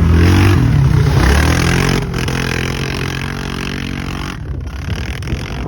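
Off-road vehicle engine revving, its pitch rising and falling for the first couple of seconds, then settling into a steadier, quieter run.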